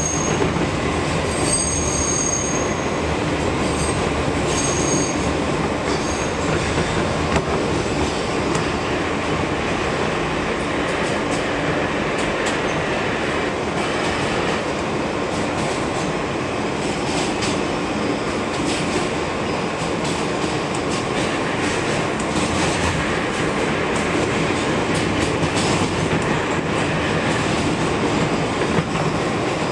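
R160B subway train running between stations: a steady rumble of wheels on rail, with high wheel squeal in roughly the first six seconds and scattered clicks as the wheels pass over rail joints.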